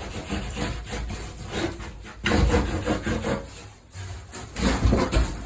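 Irregular scraping and rubbing in uneven strokes, louder in two stretches, about two seconds in and again near the end.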